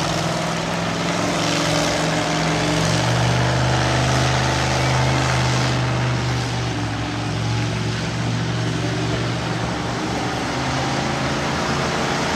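Monster truck engine running hard, revving with its pitch shifting up and down a few times.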